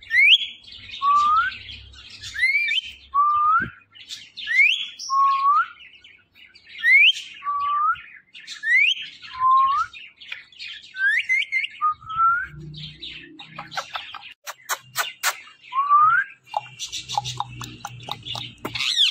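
Indian ringneck parakeet calling: a run of short, rising whistled notes, a high one and a lower one in turn, about one a second. About two-thirds of the way through, a brief stretch of rapid clicking chatter breaks in before the whistles resume.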